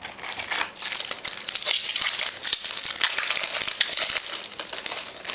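A 2009-10 SPx hockey card pack wrapper crinkling steadily as it is torn open and handled.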